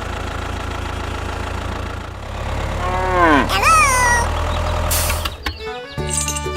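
A small motor hums steadily, and about three seconds in a cow moos once, bending down and then up in pitch. Near the end the hum stops and music with held notes comes in.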